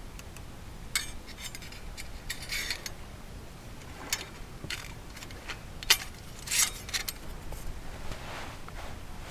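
Scattered clicks, clinks and short scrapes of small hard camp gear being handled, with the sharpest knock a little before six seconds in.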